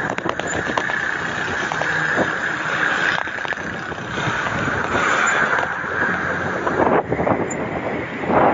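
Wind buffeting the microphone and road noise while riding a bicycle, with scattered clicks and rattles; it turns gustier near the end.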